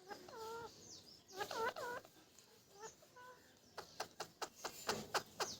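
Pet parrot making short, soft calls that bend in pitch, a few in the first two seconds, then a run of short sharp clicks at about four a second near the end.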